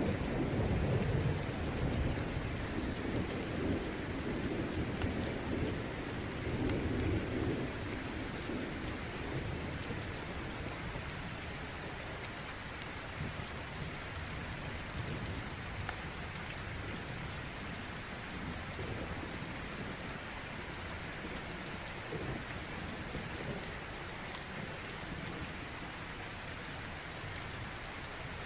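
Steady rain with a low rumble of rolling thunder that dies away over the first several seconds, and a fireplace crackling in scattered faint pops.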